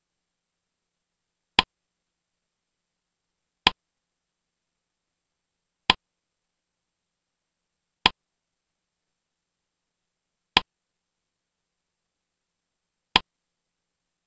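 Six short, sharp clicks about two to two and a half seconds apart, with silence between: each one marks the slideshow advancing as a new word card appears.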